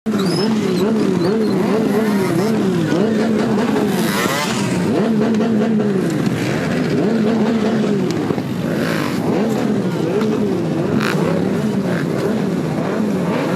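Motorcycle engine revved up and down again and again, its pitch rising and falling about once a second.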